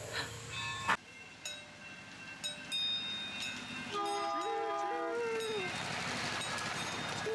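Train horn sounding about four seconds in: a two-note tone that bends up and then falls away over about a second and a half, with a steady hiss in the second half.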